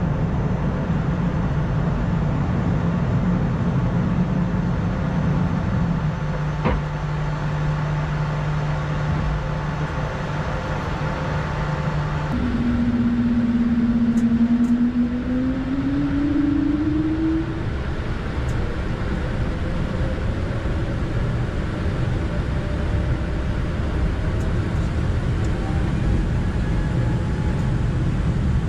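Steady flight-deck noise of an Airbus A220-300 in the climb: airflow and the hum of its Pratt & Whitney PW1500G geared turbofans. About twelve seconds in, a low steady hum gives way to a tone that rises in pitch over several seconds, with a single click a few seconds before.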